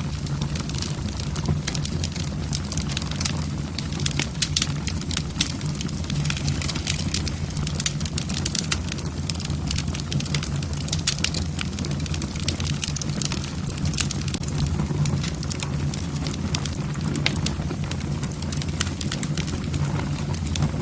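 Wood fire burning in a fireplace: logs crackling with many small irregular pops and snaps over a steady low noise from the flames.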